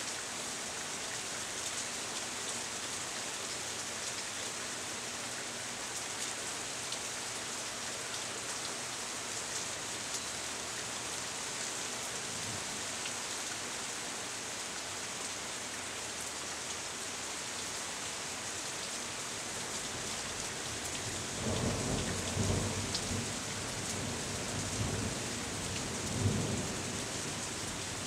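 Steady rain shower hissing down. About two-thirds of the way through, a low rumble swells up for several seconds in uneven surges before settling back under the rain.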